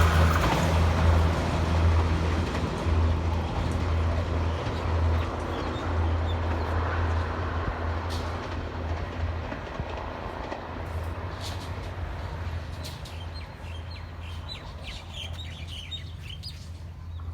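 Passenger train rumbling past on the rails, its rumble and steady low hum fading steadily as it moves away. Birds chirp in the second half.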